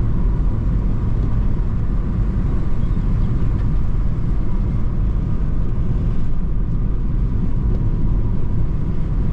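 Car driving at road speed: a steady low rumble of tyres, engine and wind.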